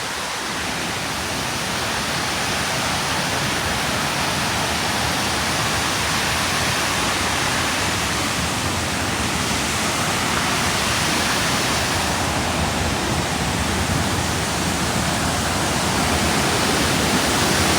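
Waterfall's falling water: a steady, dense rush that grows gradually a little louder.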